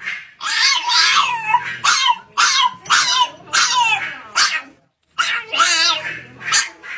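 A dog whining and yipping in a run of about nine short, high-pitched calls that waver and slide in pitch, with a brief pause just before the last few.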